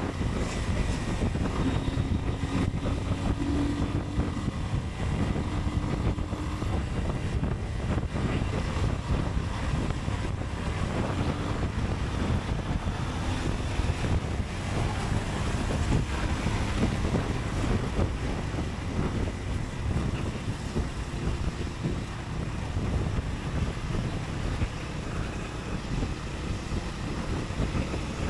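Wind rushing over the microphone of a moving motorcycle, over the low, steady rumble of its engine and tyres on the road.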